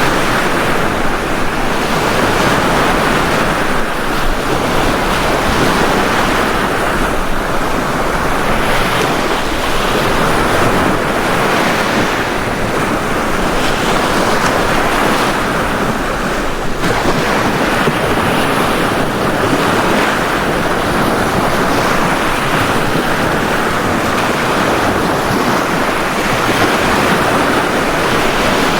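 Ocean surf washing onto a beach: a steady rush of breaking waves that swells every few seconds.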